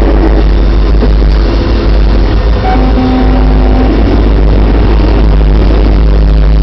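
Freight train with a New Haven FL9 locomotive in its consist passing close, with a loud, steady low rumble. Several steady tones sound together for about two seconds near the middle.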